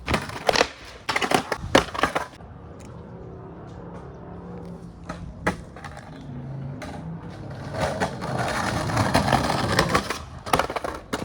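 Skateboard on pavement: a cluster of sharp clacks and board impacts, then the rush of wheels rolling on rough ground, with more clacks near the end.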